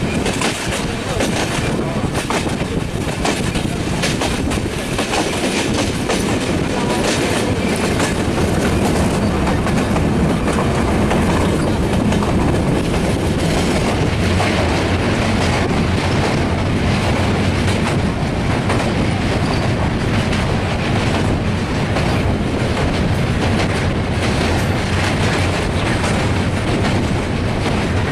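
Chittra Express passenger train running across the steel Hardinge railway bridge: a loud, steady rumble of wheels and girders with a rapid clickety-clack of wheels over rail joints.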